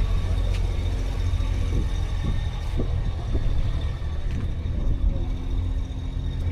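Steady, fairly loud low rumble, with faint voices of people in the background.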